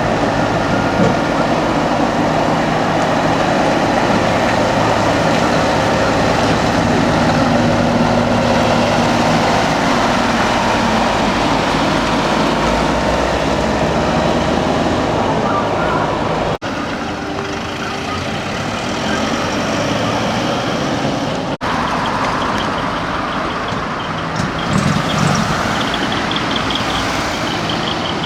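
Heavy truck engines running as trucks drive out one after another, a steady rumble of engine and road noise.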